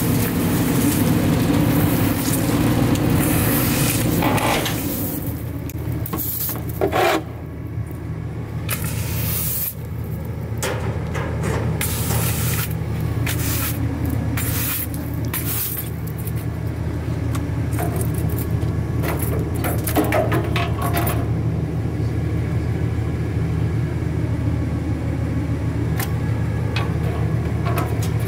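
CNG engine of an Autocar ACX Heil Durapack 5000 rear-loader garbage truck running steadily, with irregular scraping and clattering over it as brush and bulky items are loaded into the hopper.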